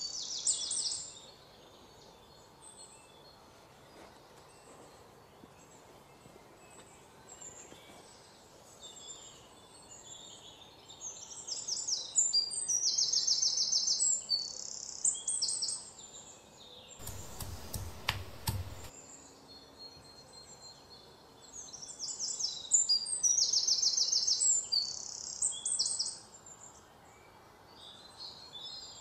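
Birds singing high, fast trilling phrases a few seconds long that come again about every ten seconds over faint outdoor ambience. A short burst of noise comes about two-thirds of the way through.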